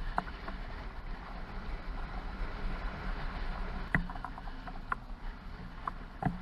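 Sailboat under way in a rainstorm: a steady low drone under a hiss of wind and water, with a few sharp knocks about four, five and six seconds in.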